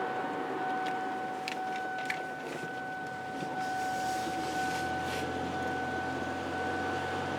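Steady running noise inside a moving car, with a constant thin high whine. A low drone comes in about halfway through, and there are a few light clicks.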